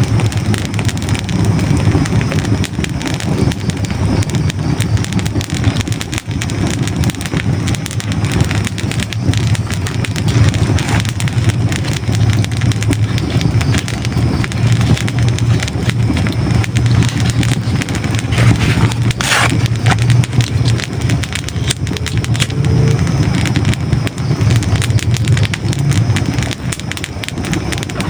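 Hardwood logs burning in a fireplace, crackling and popping steadily over a low rumble, with one sharper crack about two-thirds of the way through.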